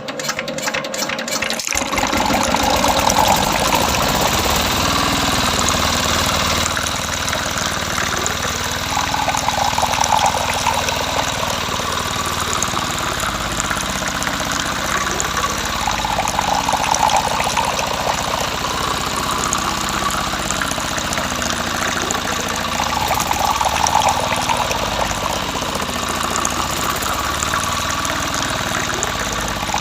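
Small engine running steadily, driving a water pump, with water rushing; the sound starts up about a second in.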